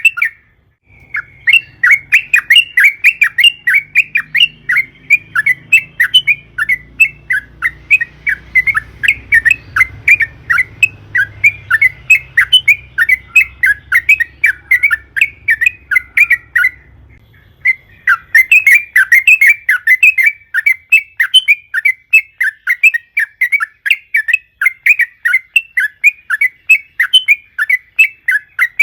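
Sooty-headed bulbul (trucukan) singing a long, fast chattering run of short notes, about four to five a second, broken once near the middle by a pause of about a second.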